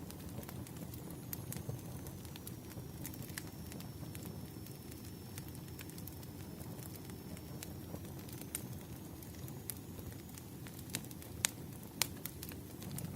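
Campfire crackling: a steady low rumble of burning wood with scattered sharp pops, two louder ones near the end.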